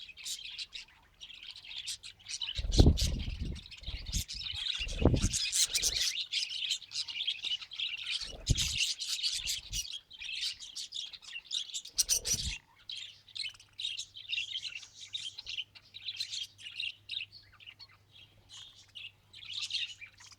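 Budgerigars chattering and warbling continuously in fast, high twitters. A few dull, low thumps come through, the strongest about three seconds in and others around five, eight and twelve seconds.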